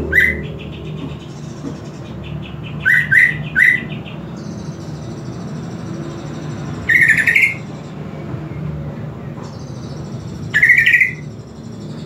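Green leafbird (cucak ijo) giving loud, sharp upward-sliding calls: one right at the start, three quick ones about three seconds in, then two longer ones a few seconds apart. A faint steady high trilling and a low hum run underneath.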